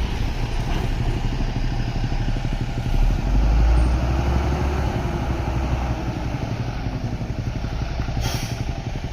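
Heavy diesel truck engine running under load during a tow up a steep hill. It grows louder about three seconds in, then eases back to a steady labouring rumble.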